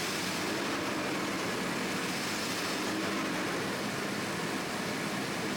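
2002 Chevy Blazer's 4.3L Vortec V6 idling steadily, heard close by with the hood open.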